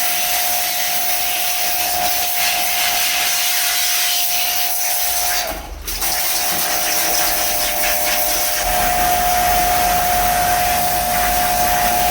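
A motor running with a steady whine under a loud hiss. It cuts out for a moment about halfway, then starts again with more low rumble.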